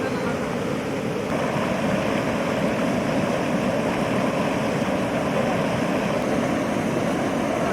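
Water pouring through the open gates of a dam, a steady loud rush that swells slightly about a second in.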